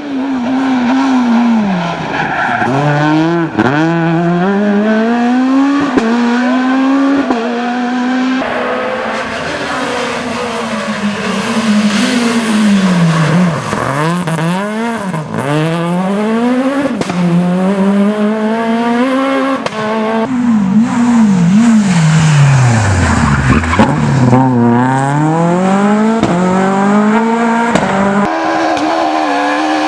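Super 1600 rally cars' high-revving 1.6-litre four-cylinder engines at full throttle, climbing in revs again and again with quick drops at each gear change, and falling off hard to a low rumble once, about two thirds of the way through, before pulling up again.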